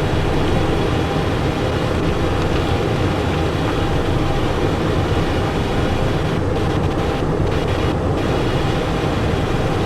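Steady rush of airflow and turbofan engine noise inside the cockpit of a Cessna Citation Encore on final approach, with gear down and landing flaps set.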